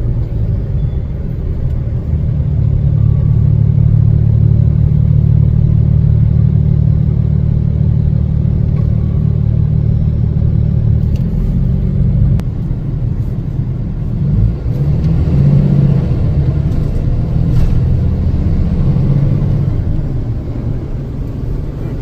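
Propane delivery truck's engine running steadily on the road, heard from inside the cab. Its low drone dips briefly about two-thirds of the way in, then picks up again.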